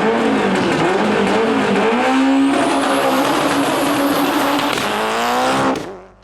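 Rally car engine sound effect, loud: the engine revs and climbs in pitch through the gears, with tyre-and-gravel noise. It fades out near the end.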